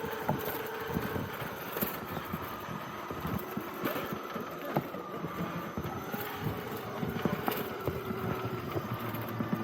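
Radio-controlled 4x4 trail truck driving over rough ground. Its electric motor and gears whine steadily, drifting slightly in pitch, under scattered clicks and knocks from the tyres and chassis on the terrain.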